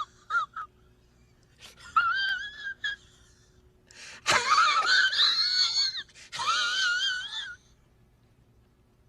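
High-pitched, wavering wailing cries from a comedy sound effect: two quick blips, then three longer cries with a shaky, trembling pitch, the one about four seconds in the longest and loudest.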